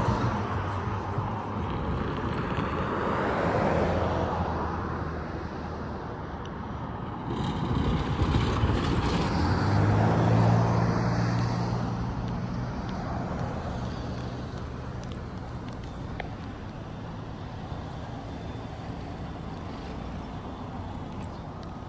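A CSX freight train rolling past, with a steady rumble of wheels on rail and the low drone of a diesel locomotive's engine that swells about eight to twelve seconds in, then fades.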